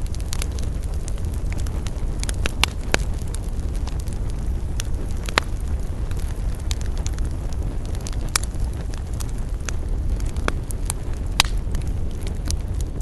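Campfire crackling, with irregular sharp pops over a steady low rumble; a few pops stand out louder.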